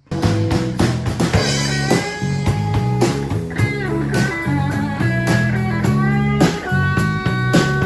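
Blues band kicking in all at once: electric guitar playing bending lead lines over bass and drums with a steady beat.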